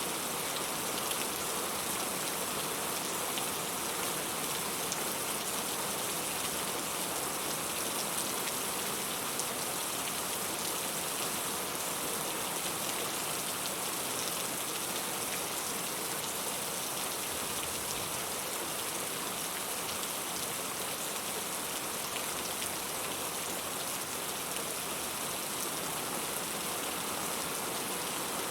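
Steady rain falling, an even hiss of many drops with faint scattered patters, unchanging throughout.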